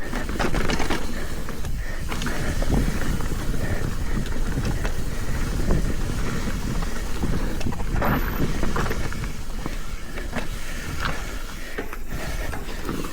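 Mountain bike rattling down a rough, rocky trail: tyres crunching over rocks and roots, the bike clattering with frequent knocks, over a steady low rumble.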